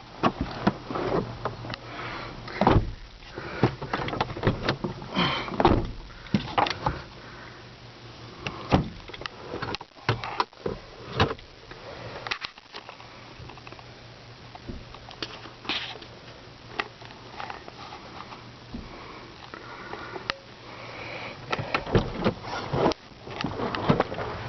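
Handling noises in a car: scattered knocks, clicks and rustling over a low steady hum.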